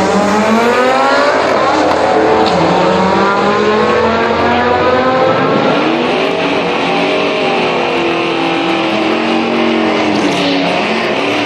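An SS Trailblazer's V8 and a turbocharged Honda Civic accelerating hard side by side down a drag strip. The engines climb in pitch and fall back at each gearshift, then hold a steadier, high-revving note toward the end.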